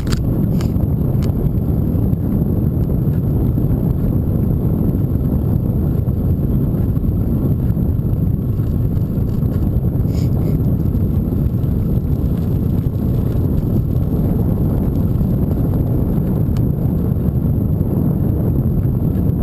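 Steady wind rush and rumble on the microphone of a rider on a moving bicycle, with a few faint ticks.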